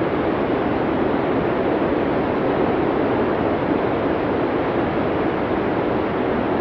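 Snowstorm wind blowing steadily: a dense, even rush of noise with no gusts, breaks or separate sounds.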